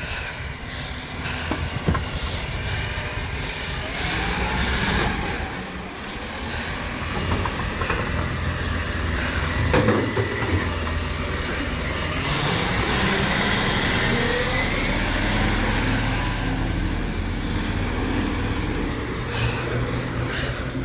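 Rubbish collection truck's engine running under load while its hydraulic bin-lifting arm works, with sharp bangs about two seconds in and again near the middle, and a rising whine shortly after.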